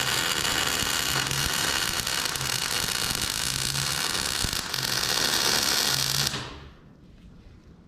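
Electric arc welding a bead on a steel fork frame: a steady, loud crackle of the arc that stops about six seconds in.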